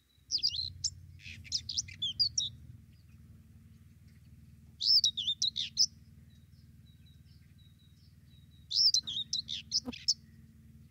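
A songbird singing three short, fast phrases of quick rising and falling high notes, a few seconds apart.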